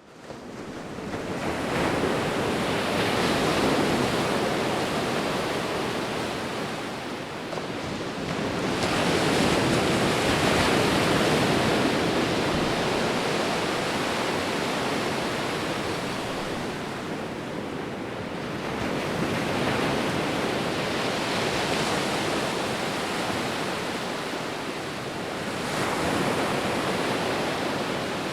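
Sea waves breaking and washing in, a steady hiss of surf that swells and ebbs four times, each surge some eight to ten seconds apart. It fades in over the first second or two.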